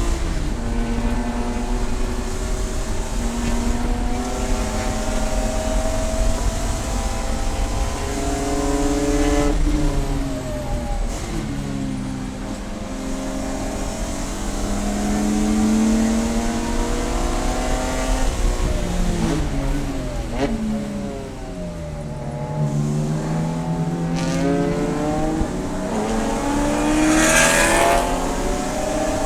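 Race car engine under hard acceleration, its pitch climbing and stepping down at each upshift, then falling twice as the car brakes and downshifts for corners. A short hissing burst comes near the end.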